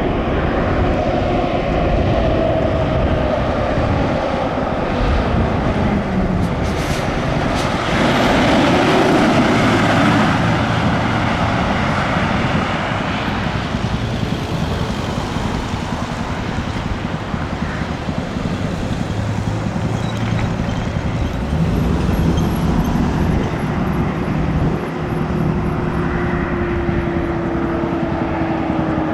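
Heavy vehicles, such as fire trucks, driving past on a road: steady engine and tyre noise that swells about a third of the way in, with engine tones sliding in pitch as they pass.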